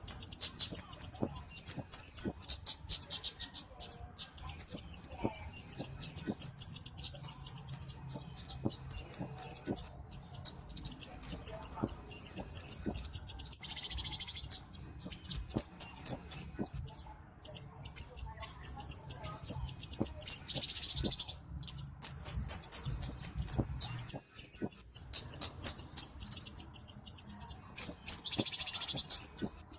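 A flowerpecker (cabe-cabean) calling: fast runs of very high, thin chips and ticking notes, in bursts a few seconds long with short pauses between them.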